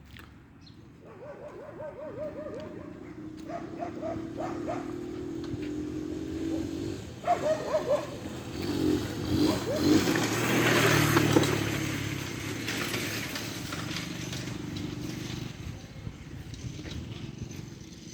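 A motor vehicle passing by: it grows louder over several seconds, is loudest about ten seconds in, then fades away.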